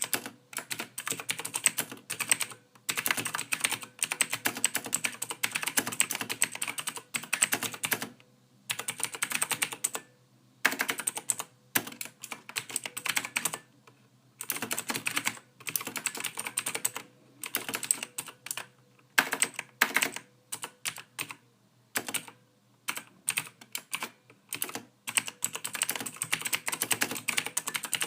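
Typing on a computer keyboard: runs of rapid keystroke clicks, broken every few seconds by short pauses.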